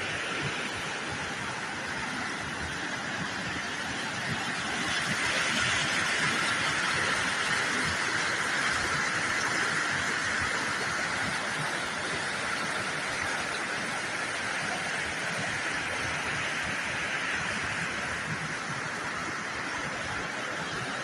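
Rushing water, a steady even hiss that swells a little louder about five seconds in and eases back later.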